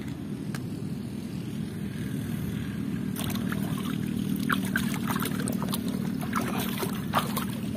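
Water running steadily, with splashing and many small sharp clicks and knocks from about three seconds in, as toy cars are washed.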